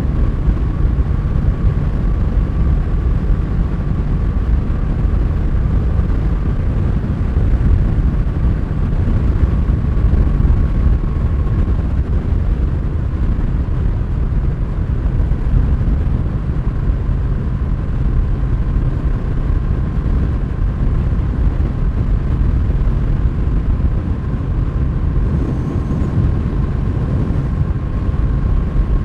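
Honda Rebel 1100's 1084 cc parallel-twin engine running at a steady cruising speed, with wind rushing over the microphone. The sound is an even low rumble with a faint steady whine on top.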